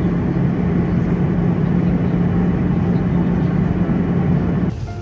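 Steady vehicle rumble with a low steady hum, cutting off abruptly near the end.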